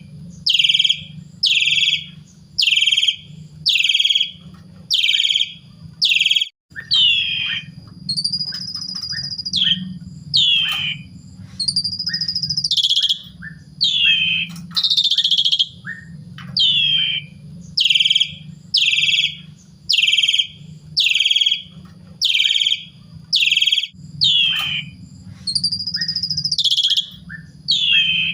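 Asian pied starling (jalak suren) calling over and over: short whistled notes that slide downward, about three every two seconds, broken a few times by a longer held whistle. A low steady hum lies underneath.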